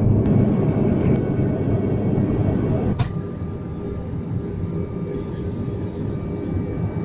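Jet airliner engine and airflow noise heard from inside the cabin during takeoff: a loud, steady rumble. About three seconds in there is a sharp click, after which the noise is a little quieter and steady engine tones come through.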